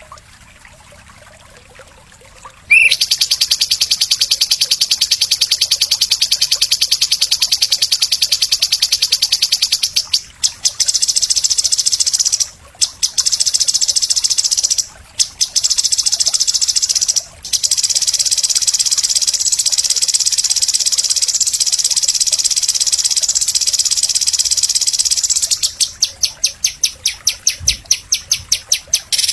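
A songbird's very rapid, high buzzing trill, starting abruptly about three seconds in and running on with a few short breaks, then breaking into separate quick pulses near the end.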